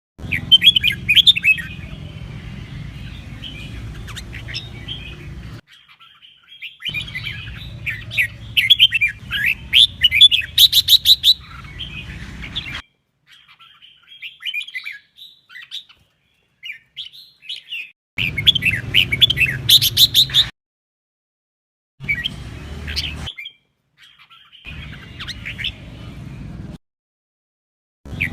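Red-whiskered bulbul song: runs of quick, bright chirping phrases. The song comes in several segments that start and stop abruptly with dead silence between them, over a low steady hum.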